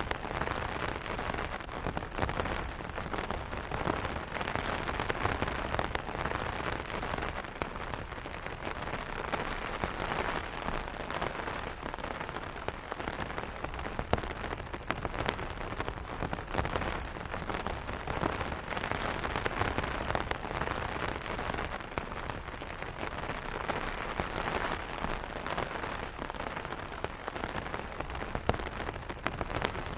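Rain falling steadily on an umbrella canopy, a dense patter of drops striking the fabric with frequent sharper individual taps.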